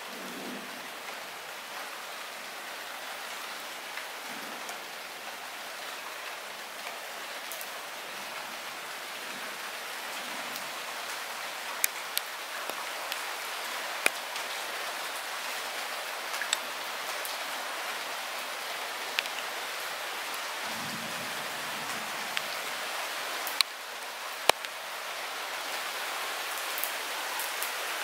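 Light rain falling steadily, with scattered sharper ticks of single drops striking close by.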